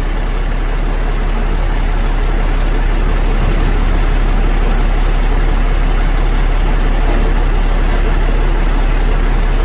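Heavy truck diesel engine idling steadily with a deep, even rumble.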